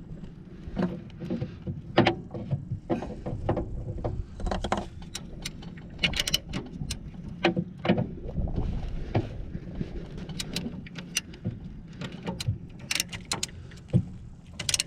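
Irregular clicks and knocks from the engine, hoist chain and drive coupling as a Kubota V2203 diesel is worked back onto its hydraulic pump coupling, over a steady low rumble of wind buffeting the microphone.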